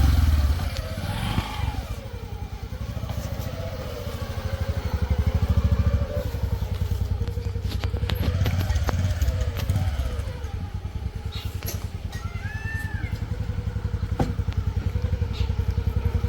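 Heavy diesel engine of earthmoving machinery running with a steady chugging, its revs rising and falling as it works under load.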